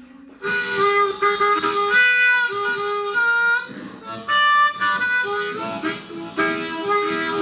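Blues harmonica playing a melodic phrase of held notes and chords, with short breaks near the middle.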